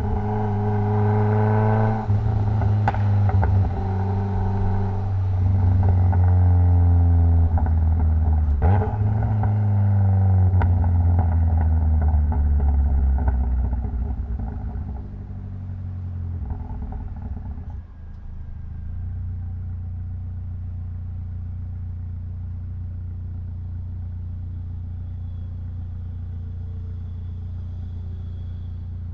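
Mitsubishi Lancer Evolution X's turbocharged 2.0-litre four-cylinder engine pulling hard, pitch rising between gear changes about two and nine seconds in. It then eases off and settles to a steady idle for the last ten seconds or so.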